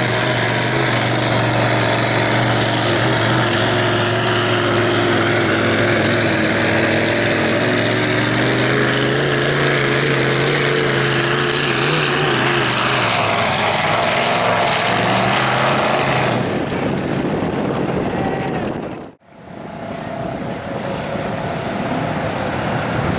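Mud truck engine running loud, its pitch wavering up and down. The sound drops out briefly near the end and comes straight back.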